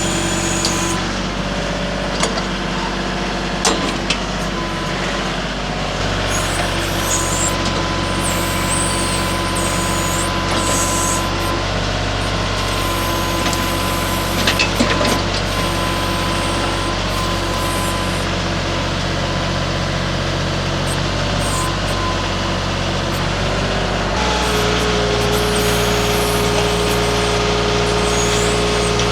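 Baumalight mini skid steer's engine running steadily under work, its note changing about six seconds in and again near the end, with a few short sharp knocks.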